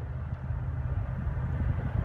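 A train rumbling by, a steady low rumble growing louder.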